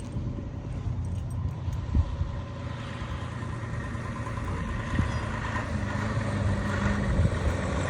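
A motor vehicle running, a steady low hum with a rising haze of noise that grows louder over the last few seconds.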